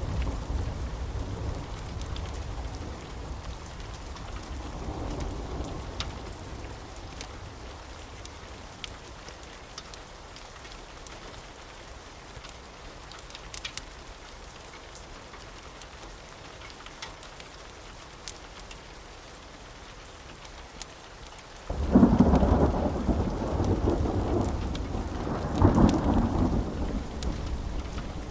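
Steady rain during a thunderstorm, with scattered small crackles. A roll of thunder dies away over the first few seconds. About three-quarters of the way in a sudden loud thunderclap breaks in and rumbles on, swelling again a few seconds later.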